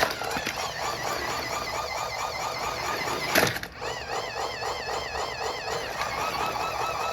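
Electric motor of a toy RC car whining with a wavering, squealing pitch as its wheels spin while the car is stuck. There is a sharp knock about three and a half seconds in.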